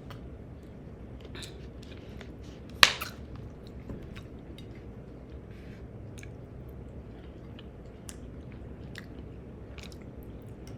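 Close-miked chewing and mouth sounds of a person eating, with scattered small clicks and one loud sharp click about three seconds in.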